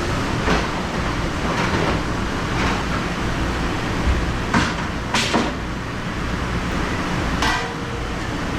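Restaurant kitchen dish station: a steady rush of machine or water noise, with dishes and kitchenware clattering and clinking about seven times. A couple of the strikes ring briefly.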